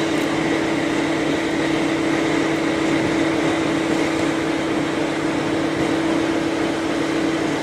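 V/Line N class diesel-electric locomotive idling: a steady hum with a constant, unchanging tone.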